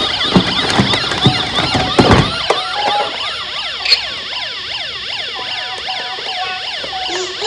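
Several toy emergency vehicles' electronic sirens sounding at once, many rising-and-falling wails overlapping. A few sharp knocks come in the first two seconds or so.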